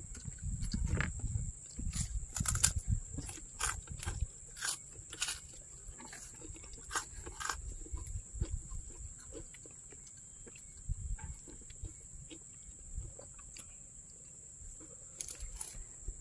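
Close-miked chewing and crunching of food, with irregular sharp crunches, busiest in the first few seconds and sparser after.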